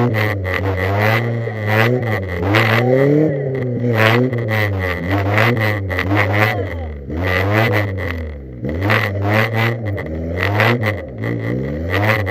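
Car engine revving hard up and down again and again, about once a second, with scattered knocks and clatter.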